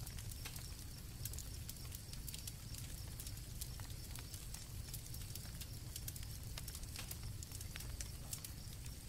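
Campfire crackling, with many small irregular pops and snaps over a low rumble of the burning fire, and crickets chirping steadily in the background.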